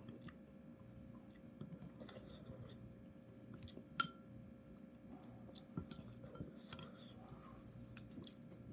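A person chewing a mouthful of dumpling softly, with small wet mouth clicks, over a faint steady hum. A single sharp click with a brief ring about four seconds in.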